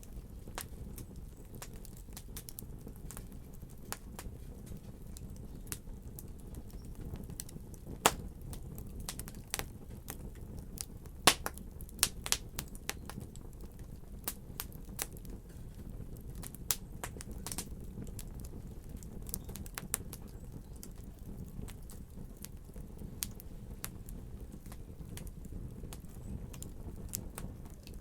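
Fire in a fireplace crackling: a low steady rumble of flame with scattered sharp pops, the loudest about eight seconds in and a cluster around eleven to twelve seconds in.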